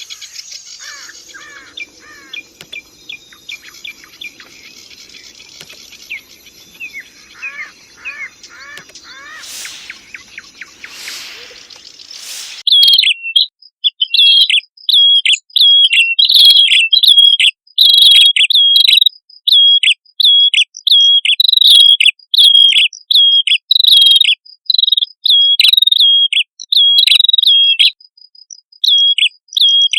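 Prenjak (prinia) song from a bird-lure recording: faint scattered chirps at first, then about twelve seconds in, loud sharp chirps repeated about twice a second, over a fast, high, steady ticking.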